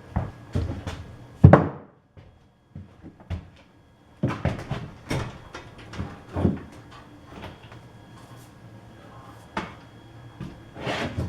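Irregular knocks and clunks of workshop handling: a piece of wood and heavy drill press parts being moved and set into place. The loudest knock comes about a second and a half in, with a short lull after it.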